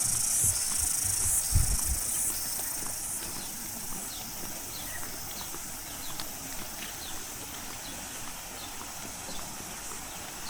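Cicadas singing in a high buzzing chorus, rising and falling in surges for the first few seconds, then carrying on steadily and fainter. A few low thumps in the first two seconds and faint short chirps scattered through.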